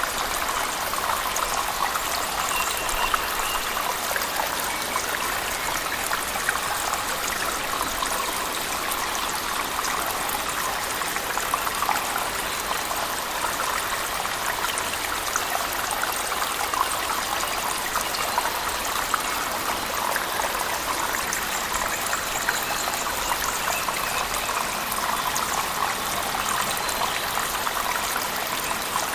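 Steady rush of falling water from a cave waterfall mixed with heavy rain, an even spattering noise that holds constant.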